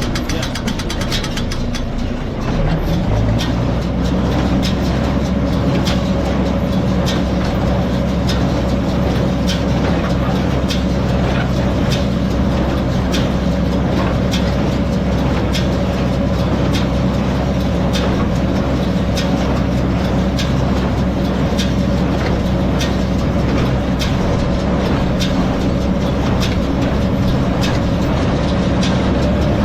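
Tractor engine running steadily under load, driving a square hay baler as it picks up and feeds hay without tying bales, with the baler's regular mechanical knocks. The engine note shifts about two to three seconds in, then holds steady.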